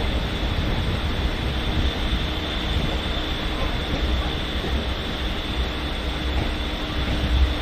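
Suburban electric local train running at speed, heard from the doorway of the coach: a steady rumble of wheels on rails with a continuous high whine over it.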